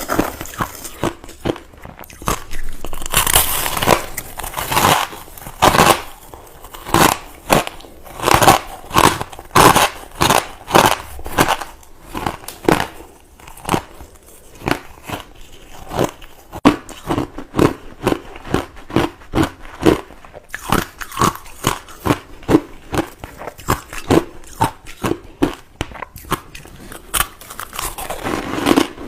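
A person biting and chewing crushed ice close to the microphone: sharp crunches about one to two a second, with a denser run of crackling a few seconds in.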